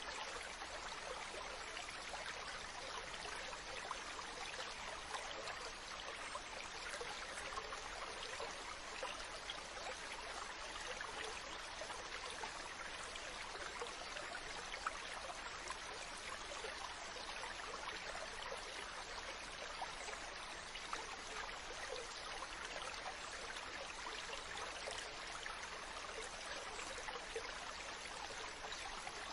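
Mountain stream running over rocks: a steady rush of water with constant small splashes and trickles.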